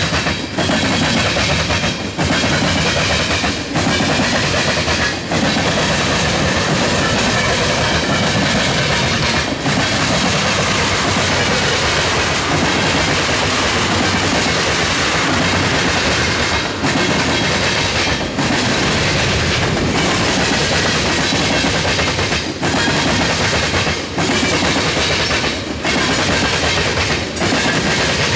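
Freight train's tank cars and covered hoppers rolling past: a steady loud rumble and rattle of steel wheels on rail, with brief dips in loudness every few seconds.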